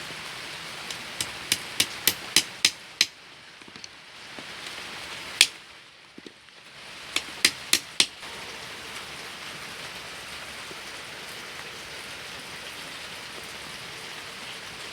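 Light hammer taps while assembling a small cage: a quick run of sharp taps about three a second, one louder knock, then four more quick taps, over a steady hiss.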